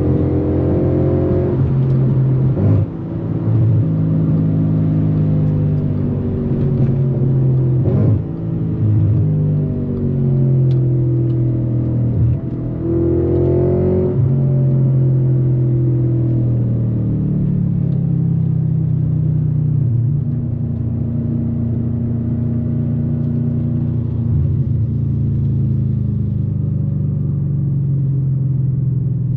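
Audi RS4 B8's 4.2-litre FSI V8 through a straight-pipe exhaust, loud under hard acceleration: the engine note climbs and drops back at gear changes about 3, 8 and 12 seconds in. From about halfway it holds a fairly steady, high note at speed.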